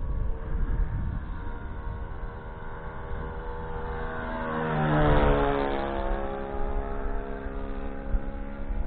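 Four-stroke Saito .40 glow engine of an RC model airplane running steadily in flight. It swells and drops in pitch as the plane flies past about five seconds in.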